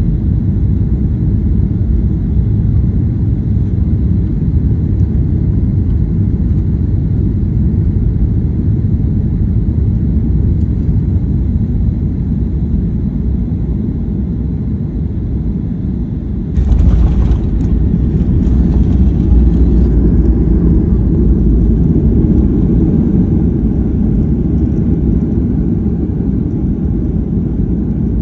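Cabin noise of a Boeing 737-800 landing: a steady low rumble of its CFM56 engines and the airflow, then about two-thirds of the way through a sudden louder rush and rattle as the wheels touch down and the aircraft rolls out on the runway, easing again toward the end.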